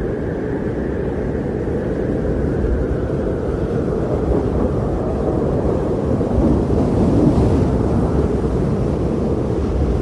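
Strong blizzard wind blowing steadily as a deep, even rush, swelling slightly stronger in gusts during the second half.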